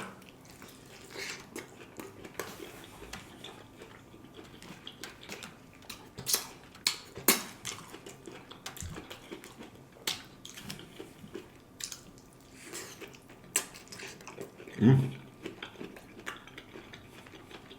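Eating sounds: cutlery clicking and scraping against a plate, with scattered sharp clicks, while stuffed bell peppers are eaten. A short low vocal hum comes about fifteen seconds in.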